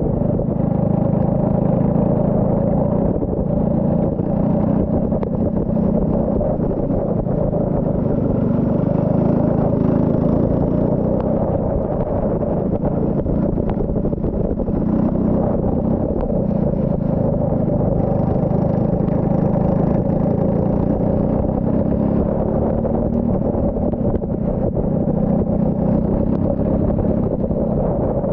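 Turbocharged Saab 9-3 race car engine running hard on track, its note rising and falling with throttle and gear changes.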